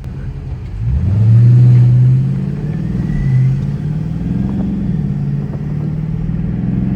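Straight-piped Dodge Scat Pack's 392 Hemi V8 exhaust accelerating: the engine note rises sharply about a second in, then holds a loud, steady drone with small changes in pitch.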